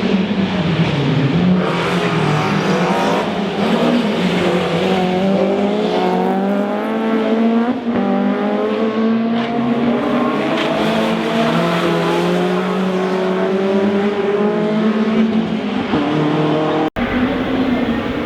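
Rally car engine under hard acceleration, its pitch climbing and dropping repeatedly through gear changes, with brief tyre squeal. The sound breaks off for an instant near the end.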